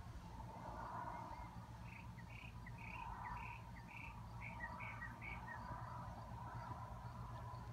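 A bird calling a quick run of about eight short, high notes, roughly two a second, starting about two seconds in, over faint steady outdoor background noise.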